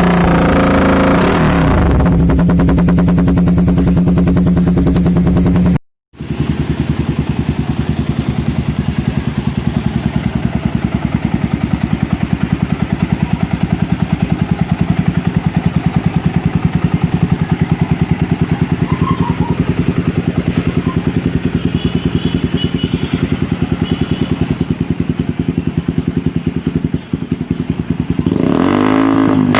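Motorcycle fitted with an SXperformance aftermarket exhaust, idling with an even pulse and blipped. A rev dies away in the first couple of seconds, the sound cuts out briefly about six seconds in, and near the end the engine revs up and falls back.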